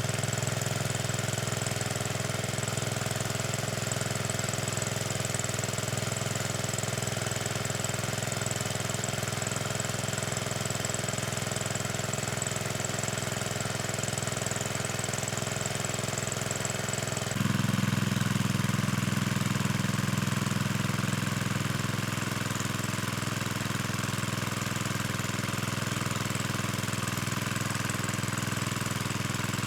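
A small engine running steadily with an even drone. About seventeen seconds in, the sound shifts abruptly to a slightly louder, deeper run and stays that way.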